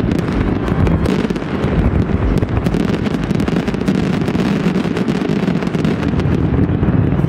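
Fireworks barrage: many shells bursting in quick succession, with a dense run of sharp bangs and cracks over a continuous low rumble.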